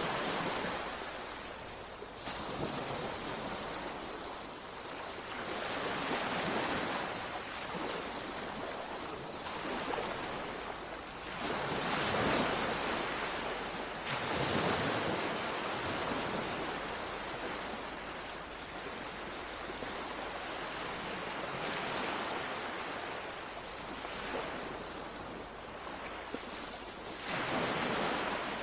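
Sea waves breaking and washing on a shore, swelling and ebbing every few seconds, with stronger surges about 12 and 15 seconds in and near the end.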